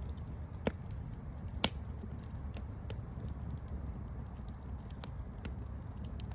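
Campfire burning with a steady low rumble and scattered sharp crackles, two louder pops about a second and a half in.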